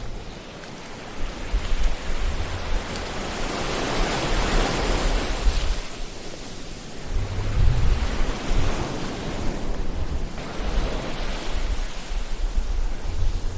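Ocean waves washing in and drawing back in a continuous surf, swelling to a peak about four seconds in and again about eight seconds in, over a low rumble.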